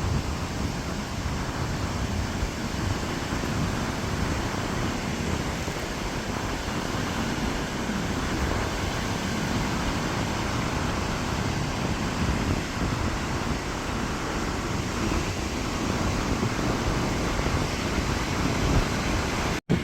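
Storm surf breaking continuously on a sandy beach in strong onshore wind, with wind rumbling on the microphone; the sound cuts out for an instant near the end.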